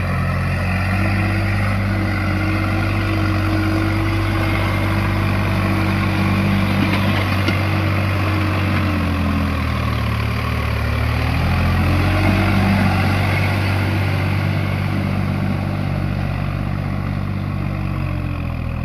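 Sonalika DI-47 RX Sikandar 4WD tractor's diesel engine running under load while puddling in low-range fourth gear. Its pitch sags about halfway through, then picks back up.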